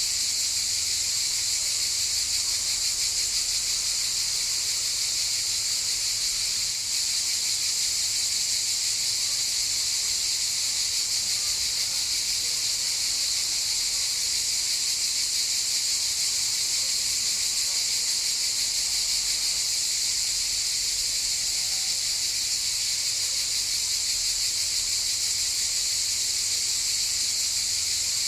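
A chorus of cicadas singing: a steady, high-pitched, unbroken buzz.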